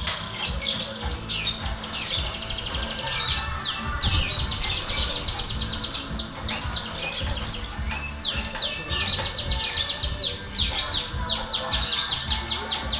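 Small songbirds chirping in quick, repeated down-sweeping notes, with a fast trill about three seconds in and dense runs of chirps near the end. Music plays faintly underneath.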